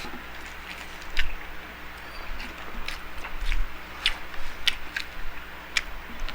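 Close-miked eating sounds: chewing with irregular sharp wet smacks and clicks of the mouth, about a dozen in the span.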